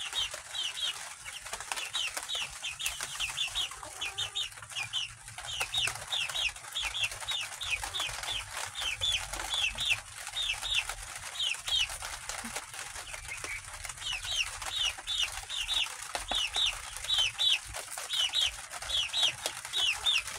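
Young chickens peeping: runs of short, high, falling peeps, several a second, with a brief lull a little past halfway.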